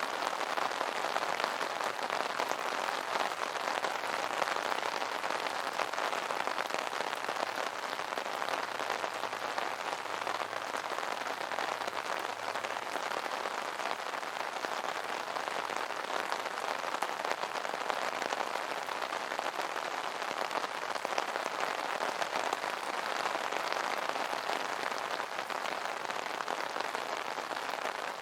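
Steady rain pattering on an umbrella canopy, a dense even patter of drops.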